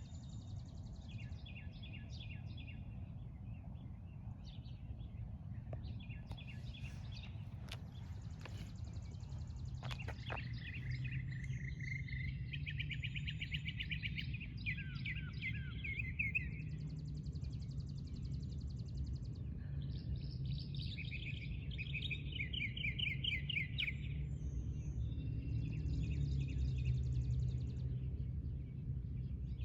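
Several songbirds singing, with repeated chirped phrases and two longer runs of fast trills, over a steady low background rumble.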